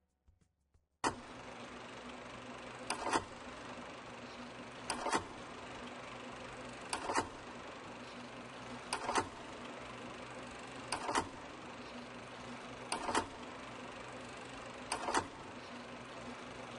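Sound design from a launch-event soundtrack: a steady hiss starts about a second in, with a double click about every two seconds.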